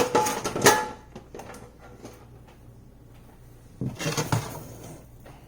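Metal cookware being handled on the stove: a ringing clank at the start and another just under a second in, then a short run of knocks about four seconds in.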